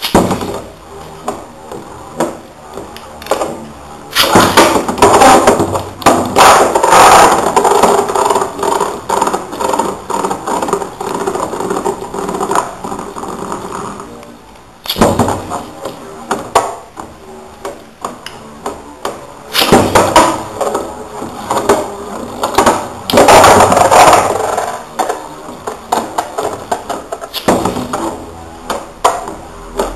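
Metal Fusion Beyblade spinning tops, Lightning L-Drago 100HF against Storm Pegasus 105F, whirring and colliding, with rapid clicks and hard knocks as they strike each other. There are two louder stretches of close clashing, with a steady whirring tone under them.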